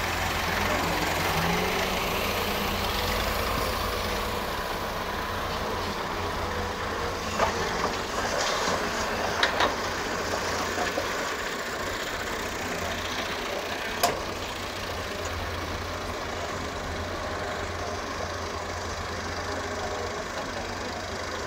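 Excavator's diesel engine running steadily under work, with a few sharp knocks about a third of the way in, again around the middle, and once more a little later.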